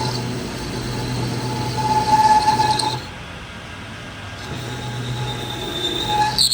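Metal lathe running with a steady hum, with a ringing squeal from the tool cutting steel. The squeal grows louder about two seconds in, drops away suddenly at three seconds, and builds again later.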